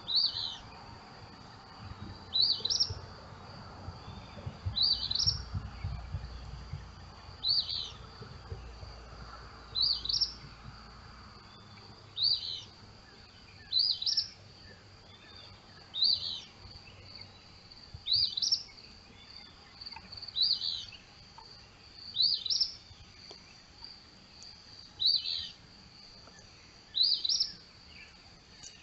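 A single bird repeating one short, high call about every two seconds, over a faint steady high-pitched whine.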